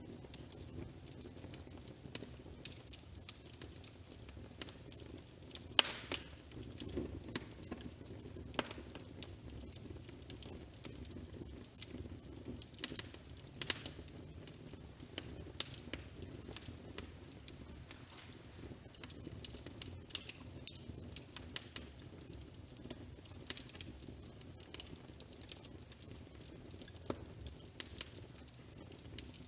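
Wood fire crackling, with irregular sharp pops of varying loudness over a steady low hiss.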